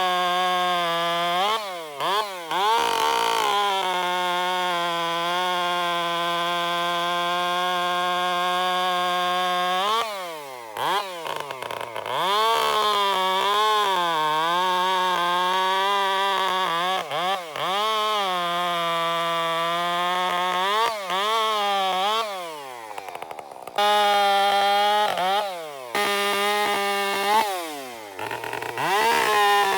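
Two-stroke chainsaw running at high revs, its pitch repeatedly sagging and recovering as it bogs under load in the cut. It drops off the throttle briefly a few times before revving back up.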